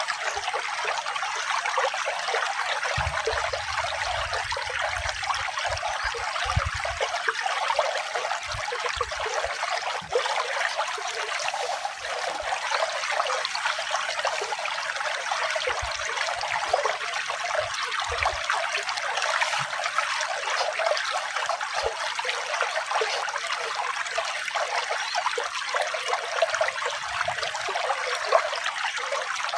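Water running and trickling steadily, an even splashing with no deep tones.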